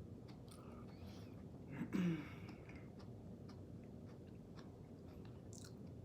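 Close-miked wet chewing and mouth clicks of someone eating a mukbang of eggs, potatoes and shrimp in butter, with a short hum about two seconds in.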